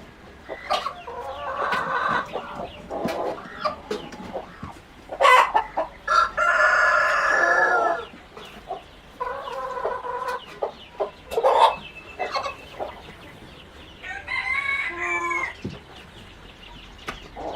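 Free-range chickens clucking, with a rooster crowing once about six seconds in, the loudest sound here.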